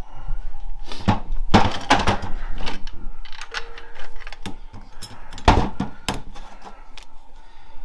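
Clutch plates and steels from a 4L65E transmission's 3-4 clutch pack clinking and clattering as the pack is taken apart by hand, a run of irregular knocks with a couple of louder clatters. The clutches are burnt, the cause of the lost third gear.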